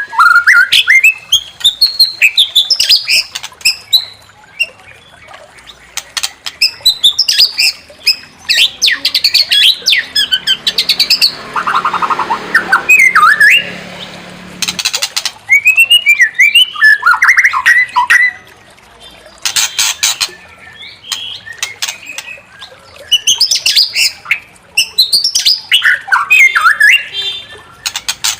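White-rumped shama (murai batu) singing a loud, fast song of gliding whistled phrases in bursts with short pauses, broken by sharp harsh clicks and a rasping stretch about halfway through.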